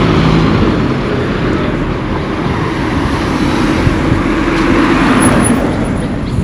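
Street traffic: motor vehicles passing close by, their engines and tyres making a steady loud noise that swells and eases as they go past.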